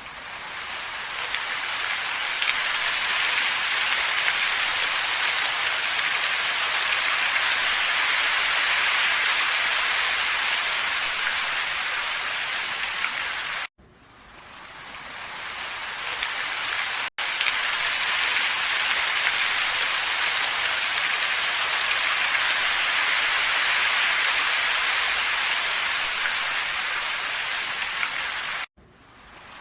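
Steady hissing noise from a looped ambience soundtrack, strongest in the upper middle pitches. It cuts out sharply about 14 seconds in and again near the end, each time fading back up over a few seconds, with a brief gap about 17 seconds in.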